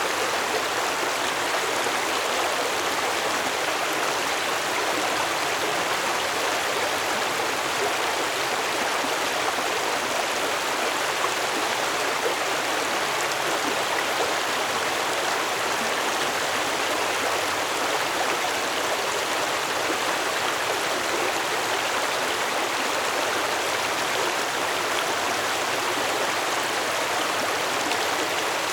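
Stream water flowing over stones, a steady, unbroken rush with no pauses or changes.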